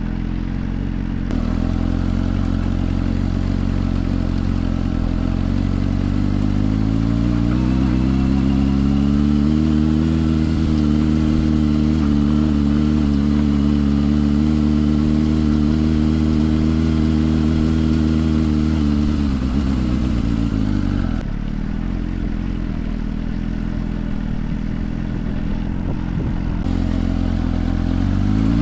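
Suzuki GSR 400's inline-four running through a Yoshimura exhaust while riding. The engine note climbs under acceleration, holds steady, then drops away as the throttle is backed off about two-thirds of the way in, and starts climbing again right at the end.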